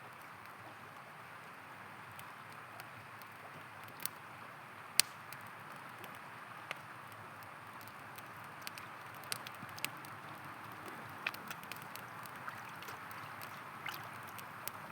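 A river flowing steadily, with the sharp pops and crackles of a campfire scattered through it; the loudest pop comes about five seconds in.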